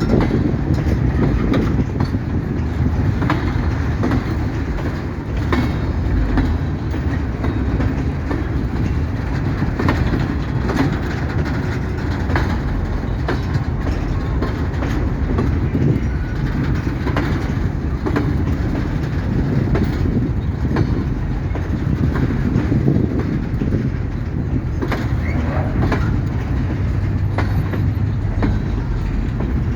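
A freight train of empty steel mining hopper wagons rolling past, a steady rumble with repeated clicks and knocks of the wheels over the rail joints.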